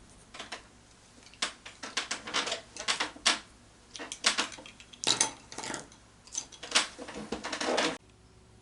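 Irregular light clicks and clatters of small hard objects being handled, in quick clusters, stopping abruptly near the end.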